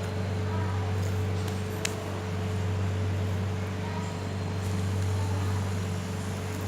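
Steady low mechanical hum with a faint constant tone above it, and a single sharp click about two seconds in.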